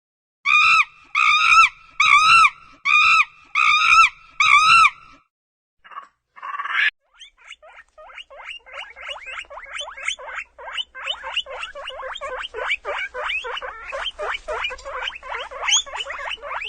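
Animal calls: six short, pitched calls about two a second, then after a brief pause a long, fast run of rapid chattering calls.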